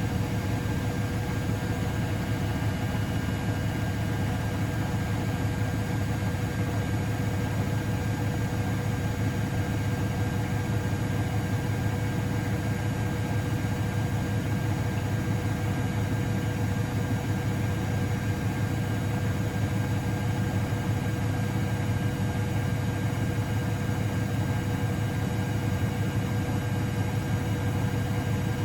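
Miele Novotronic W921 washing machine running steadily: a constant low hum with a thin whine on top and no pauses.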